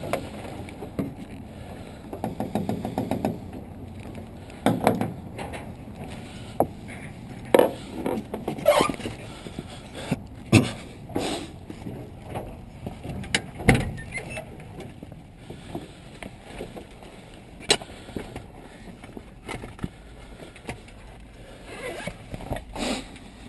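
Irregular knocks, clicks and scrapes of handling, with a quick run of rapid ticks a few seconds in.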